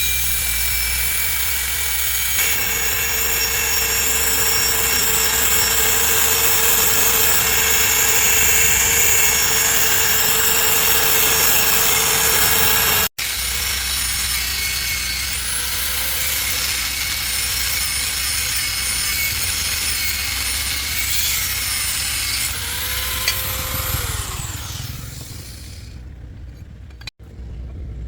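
A power tool running under load, a dense high-pitched grinding noise. It breaks off abruptly about 13 seconds in, resumes with wavering high tones, and fades away near the end.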